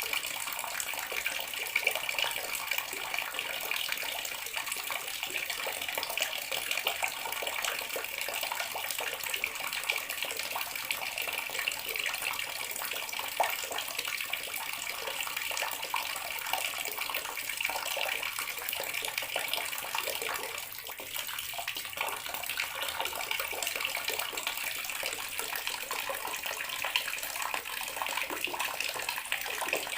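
Water tap running steadily into a bathroom sink, a continuous splashing stream with small crackling splashes.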